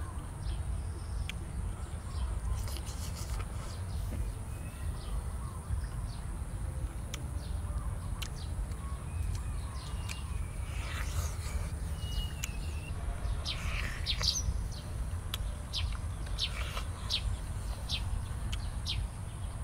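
Small birds chirping in short, quick high notes, thickest in the last third, over a steady low rumble.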